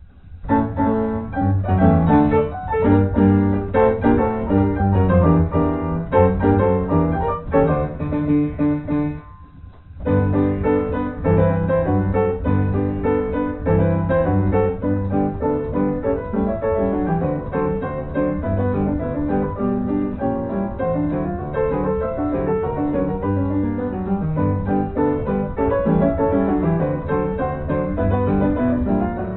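Background piano music. It dips briefly about nine seconds in, then carries on.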